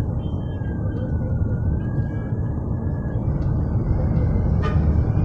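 Steady low rumble of road traffic, with a vehicle's engine running close by. A faint wavering high tone drifts over it in the first half.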